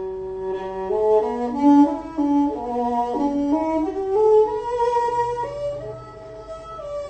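Thai classical instrumental music: a slow melody of long held notes on a Thai bamboo flute and bowed Thai fiddles, softening near the end.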